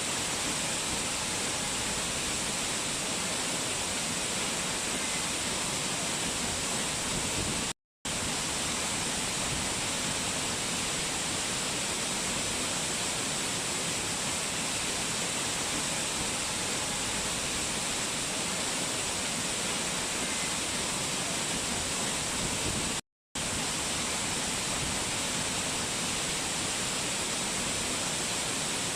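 Rushing mountain water, a steady, hissy rush of falling and flowing water. It cuts out abruptly for a split second twice.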